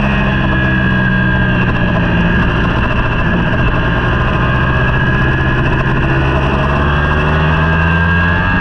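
Superbike engine running hard, recorded onboard, its pitch sagging slowly through the middle and climbing again near the end.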